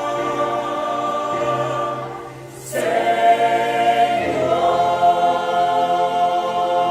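Church choir singing a hymn in held chords. About two and a half seconds in the voices briefly drop away, then come back in louder on a new phrase.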